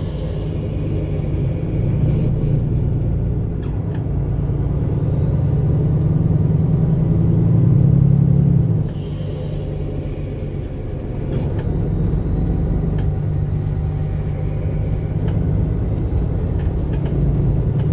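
MAN Lion's City A21 bus's 360 hp diesel engine with ZF EcoLife six-speed automatic pulling under load, its drone building for about nine seconds, dropping off suddenly, then building again. A faint high whine rises in pitch with it, and small rattling clicks come through.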